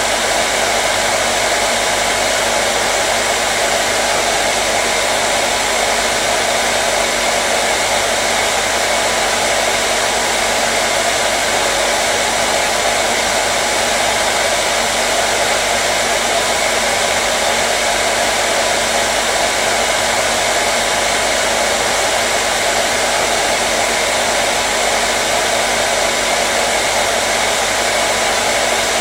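Hair dryer running steadily, a constant whooshing rush of air with a faint steady motor hum beneath it.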